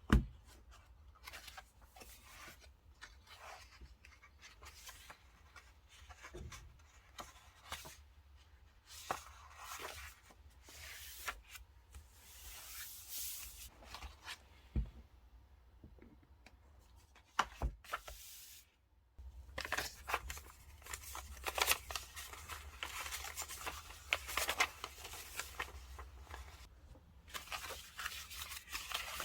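Paper and stickers being handled: stickers peeled off their backing and paper rustling, in short scattered strokes with a few sharp taps. The handling gets busier about two-thirds of the way in.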